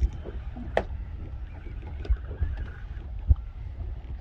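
Wind rumbling on the microphone aboard a small boat at sea, with a few dull knocks and one sharp click just under a second in.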